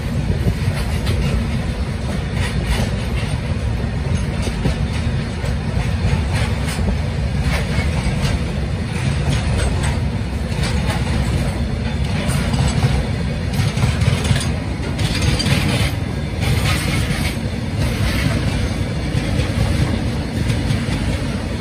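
Freight train of steel tank wagons rolling past close by: a steady low rumble of wheels on the rails, with repeated clicks and knocks as the wheels run over the rail joints.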